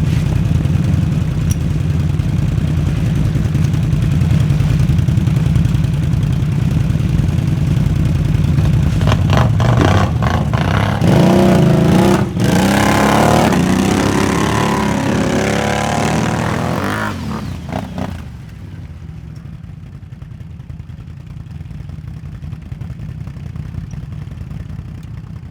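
4x4 ATV engines running hard, with revving that rises and falls from about eleven seconds in. After about eighteen seconds the sound drops to a much quieter low drone.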